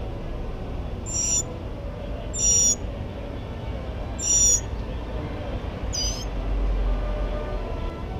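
Mockingbird singing: four short, high-pitched phrases about a second and a half apart, over a steady low background rumble.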